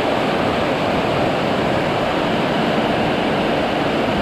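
Heavy rain pouring down in strong wind: a steady, dense rush.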